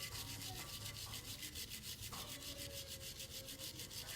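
Stiff brush scrubbing metal motorcycle engine parts, in fast, even back-and-forth strokes of about ten a second.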